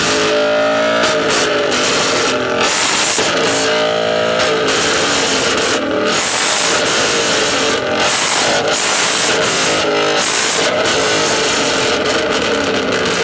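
A car engine revved hard over and over, its pitch climbing steeply on each rev, with a loud steady engine-and-exhaust sound between the climbs.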